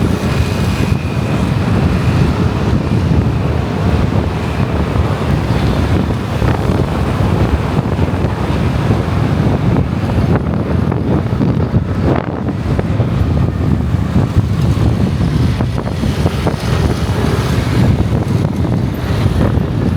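Wind buffeting the microphone on a moving motorcycle, over the steady noise of the bike and the road. Loud and steady throughout.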